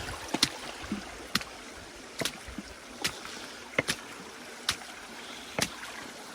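Shallow creek water running steadily over bedrock, with sharp short splashes of footsteps wading through it about once a second.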